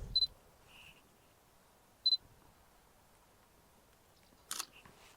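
Sony FX3 camera taking a photo: two short high focus-confirmation beeps about two seconds apart, then a single sharp shutter click near the end.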